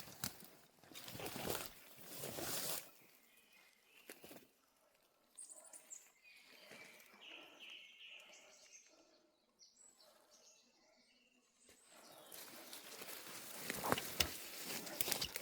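Brush and leaves rustling under footsteps at the start and again near the end, with short bird calls in the quieter stretch between.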